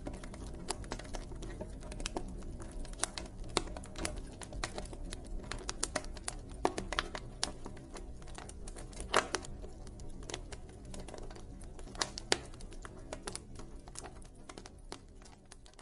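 Campfire burning, with irregular crackles and pops of wood over a low steady rumble of flame. It fades out near the end.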